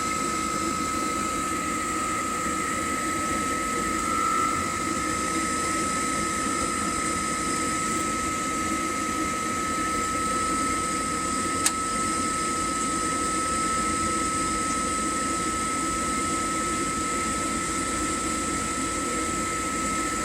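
Rinnai tankless water heater running while heating water: a steady whine over a rushing hiss from its fan and burner, with one sharp click about halfway through.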